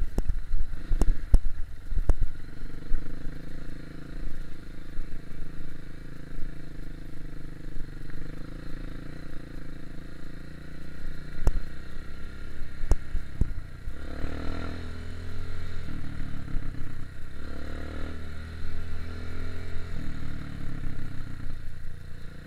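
Single-cylinder four-stroke KTM 250 EXC-F dirt bike engine running at low revs. Sharp knocks and rattles come in the first couple of seconds and again around the middle, and the engine revs up and back down twice in the second half.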